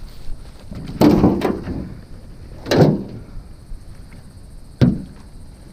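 Three heavy knocks and thumps of gear being moved about in a john boat: about a second in, near three seconds, and a sharper knock near five seconds.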